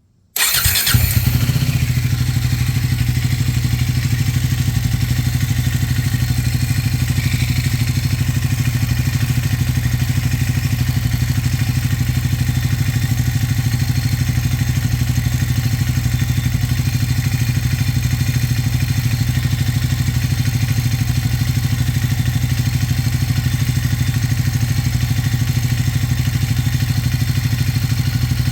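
Triumph 400 motorcycle's single-cylinder engine idling steadily. It comes in suddenly just after the start.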